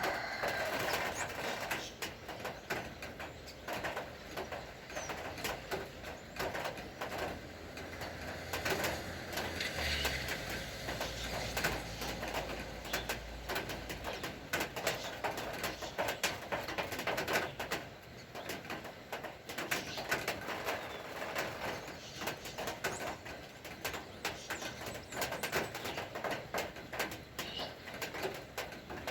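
Rain falling, many separate drops ticking irregularly on nearby surfaces, with birds calling.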